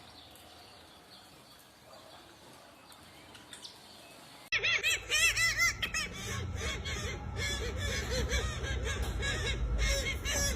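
Faint background hiss, then an abrupt jump about four and a half seconds in to loud bird calls: short arching notes repeated in quick succession over a low rumbling noise.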